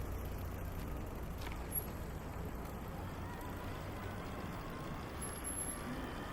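City street ambience: a steady low rumble of road traffic under an even background hiss.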